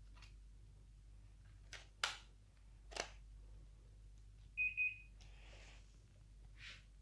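Two quick high beeps, close together, from a Daikin mini split air conditioner's indoor unit, the chirp it gives on receiving a remote-control command. A couple of sharp clicks come a second or two before.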